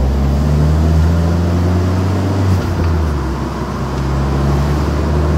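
Abarth Punto Evo's 1.4 MultiAir turbo four-cylinder engine running under way, heard from inside the cabin: a steady low drone that briefly dips and changes pitch about halfway through.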